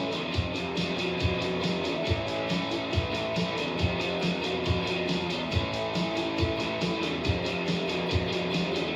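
Live rock music: a song's instrumental intro, with guitar strumming over a steady beat.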